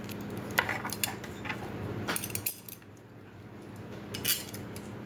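Metal grill parts and hardware clinking and knocking as they are handled and fitted during assembly: a few separate sharp clicks, the loudest near the end.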